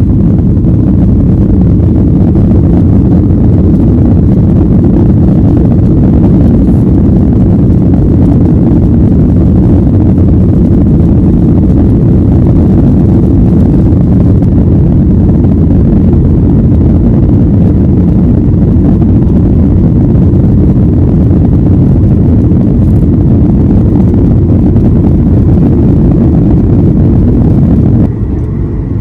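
Airliner cabin noise: a loud, steady low rumble of the jet engines and airflow heard from inside the passenger cabin. It drops suddenly near the end.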